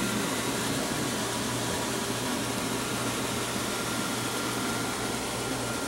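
Steady room noise: an even hiss with a low hum and a faint high steady whine, unchanging throughout.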